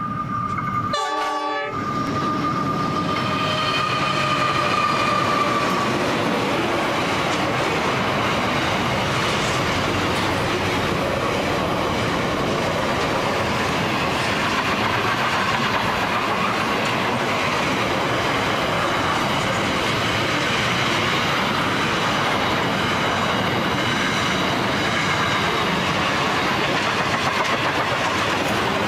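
A freight train hauled by two NR class diesel locomotives passes close by. Its horn sounds a long blast for the first six seconds or so, then container wagons roll past steadily, wheels clattering over the rail joints.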